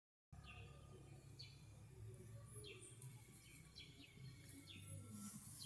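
Faint bird chirps: a string of short, high calls that sweep downward, repeating every second or so, over a low steady hum.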